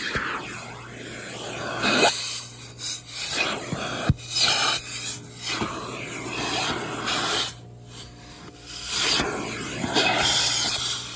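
Car wash vacuum hose sucking air as its nozzle is worked over the car's interior, a rushing hiss that swells and drops as it moves, with a few knocks over a steady low hum.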